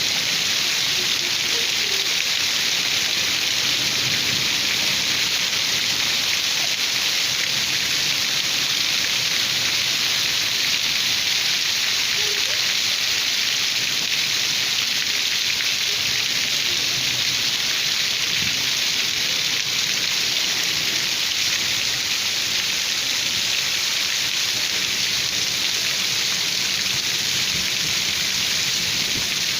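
Steady heavy rain falling, an even hiss that neither builds nor eases.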